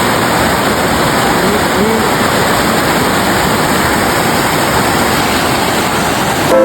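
Waterfall water rushing in a loud, steady roar of noise, heard up close.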